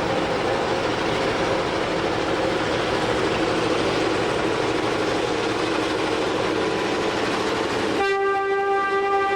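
Diesel locomotive running with a steady heavy rumble, then its air horn sounds suddenly about eight seconds in and holds on to the end.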